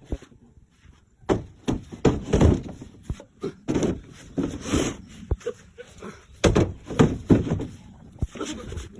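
Irregular knocks and thuds of wooden pieces being handled and struck, about a dozen separate blows with the loudest cluster a little past the middle.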